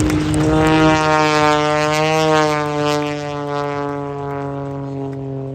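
Piston-engine propeller airplane flying past: a steady engine drone whose pitch sinks slowly as it goes by, loudest about a second in and fading toward the end.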